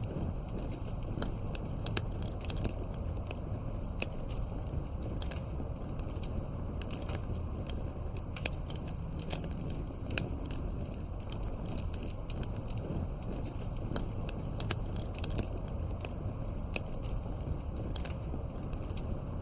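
Campfire of burning wood crackling, with irregular sharp snaps and pops over a steady low rumble of the flames.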